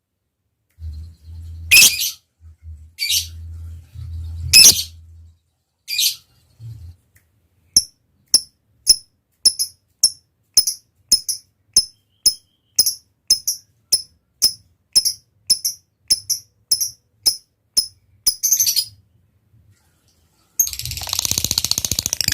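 Lovebird calling: a few loud, harsh shrieks, then a long run of short, high ticking notes about twice a second ('ngetik'). Near the end it breaks into a dense, rapid chattering trill, the long 'ngekek' of a bird in full song.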